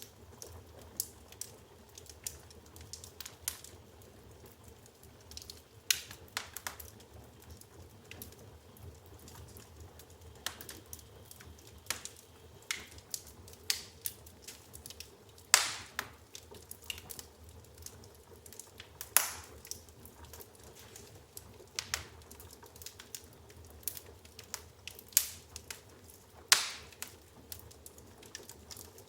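Firewood burning in an open fireplace, crackling with irregular small pops and snaps and a few louder sharp cracks around the middle and near the end, over a faint steady low background.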